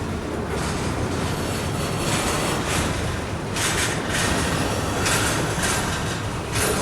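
Norfolk Southern freight train rolling past: a steady low rumble of wheels and cars on the rails, with a few louder hissing surges of wheel-on-rail noise.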